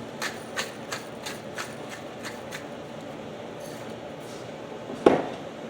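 A run of light, irregular clicks, about three a second, that stops about two and a half seconds in, over a faint steady hum. A short, loud hum of voice falling in pitch comes about five seconds in.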